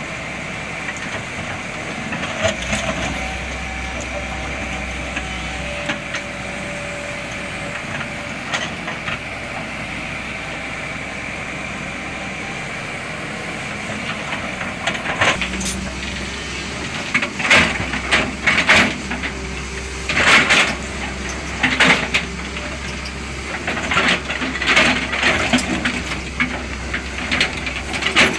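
Sany 210 hydraulic excavator running steadily, with a run of sharp, irregular knocks from its working gear starting about halfway through.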